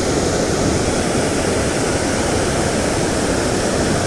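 Small creek waterfall pouring steadily into its plunge pool, a constant rushing of water.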